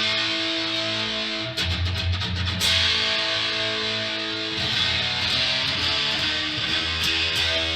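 Yamaha Pacifica electric guitar played through an amplifier: chords strummed and left to ring, restruck several times.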